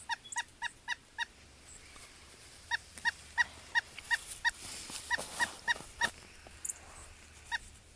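Woodpecker giving a series of short, evenly repeated calls, about three a second, in two runs with a pause of about a second and a half between them and one last call near the end.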